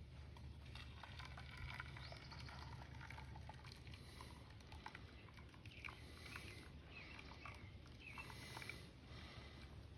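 Faint, irregular ticking and crackling of molten lead being poured slowly into a metal waffle plate.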